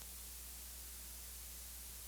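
Steady hiss with a low, even hum underneath: the recording's own background noise, with nothing else sounding.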